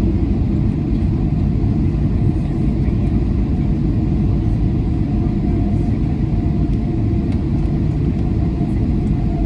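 Steady low cabin rumble inside a Boeing 737-900 airliner, with a faint steady hum above it.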